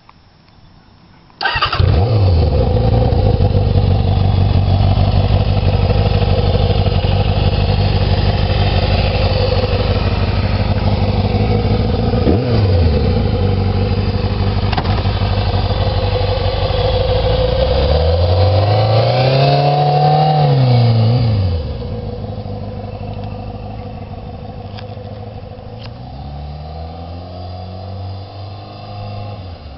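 Kawasaki Ninja ZX-6E motorcycle's inline-four engine bursting into life about a second and a half in, then running loud. There is a short blip of the throttle partway through and a longer rev that rises and falls, after which it runs quieter, with a softer rise and fall near the end.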